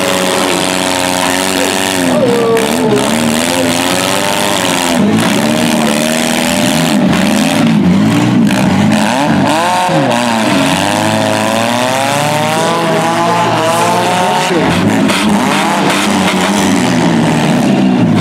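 Several demolition-derby minivan engines revving up and down at once, their pitches rising and falling over one another.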